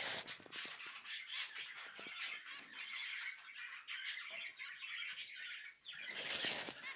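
Caged finches chirping, a fast, continuous chatter of many short high chirps overlapping one another.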